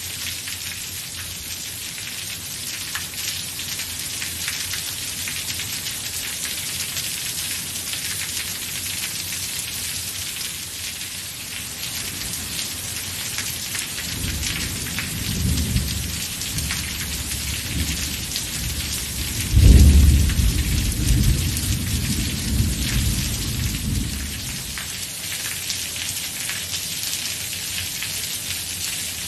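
Steady rain falling, with thunder: a low rumble about halfway through, then a louder clap that starts suddenly and rolls off over about four seconds.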